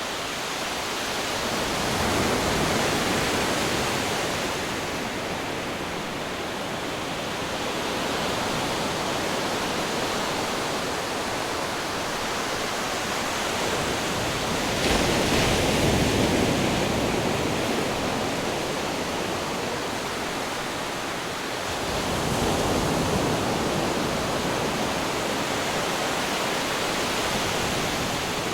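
Ocean waves crashing against rocks: a steady rush of surf that swells three times, about two seconds in, around the middle, and again near the end.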